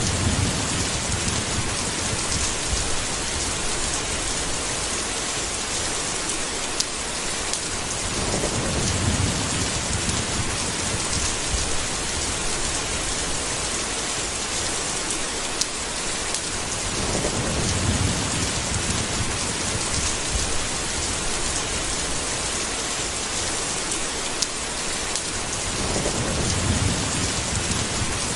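Steady heavy rain with low rolls of thunder rumbling four times, about every nine seconds.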